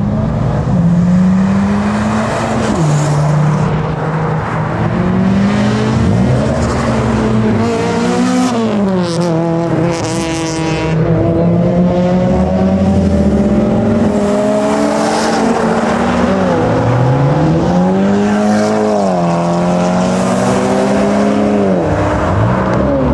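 Modified car engines revving and accelerating away one after another, their pitch climbing and dropping with each rev and gear change.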